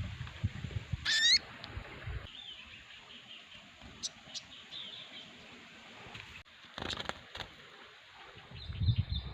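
Small bird calling: one loud harsh call with quick rising sweeps about a second in, then scattered thin chirps and a quick run of short high notes near the end, over low rustling thumps.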